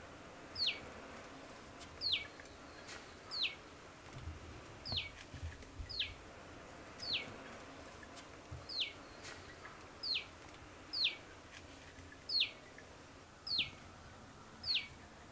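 A bird calling over and over, one short high note sliding downward each time, about once a second.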